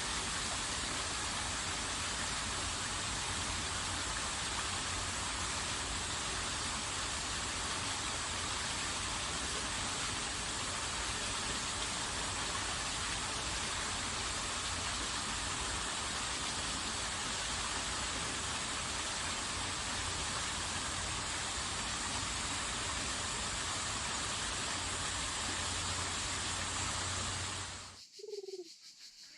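Steady, even rushing of water. Near the end it cuts off abruptly, and a low cooing bird call follows.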